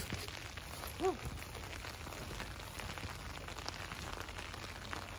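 Light rain falling, an even hiss with faint scattered drop ticks, and one short hum from a person about a second in.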